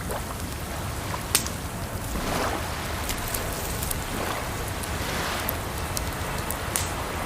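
A wood fire crackling, with sharp pops, the loudest about a second and a half in, over a steady rush of water that swells every second or two.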